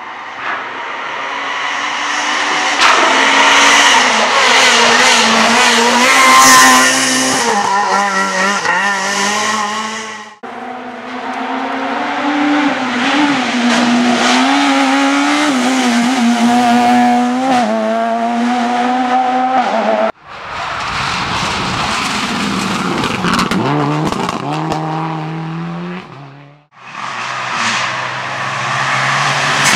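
Rally cars at full throttle on a gravel or tarmac stage, engines revving hard with the pitch rising and falling through gear changes, in four separate passes cut abruptly one after another.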